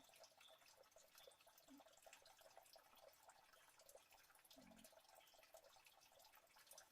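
Near silence, with faint trickling and dripping water throughout and small scattered ticks.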